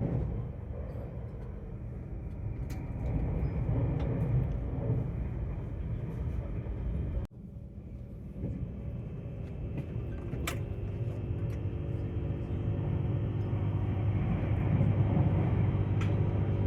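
Tilt Train running along the line: a steady low rumble with a faint hum and a few scattered light clicks. The sound drops out for a moment about seven seconds in.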